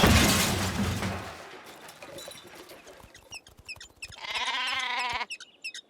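A loud, noisy sound fades away over the first second and a half. About four seconds in, a sheep gives a single wavering bleat lasting about a second, with small bird chirps around it.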